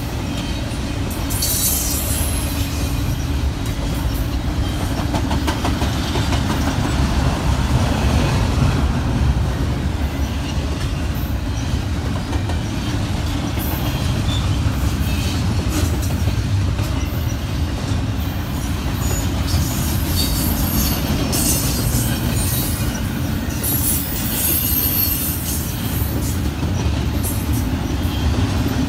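Double-stack intermodal freight train rolling past: a steady heavy rumble of steel wheels on the rails, with high-pitched wheel squeals several times, the strongest about two seconds in and again about twenty seconds in.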